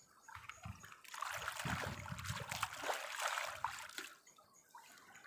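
Water splashing and trickling as toy cars are rinsed by hand, for about three seconds starting about a second in.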